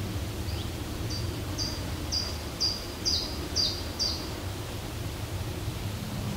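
A songbird singing a phrase of about eight short, high, evenly repeated notes, roughly two a second, which stops a little past the middle. A steady low rumble runs beneath it.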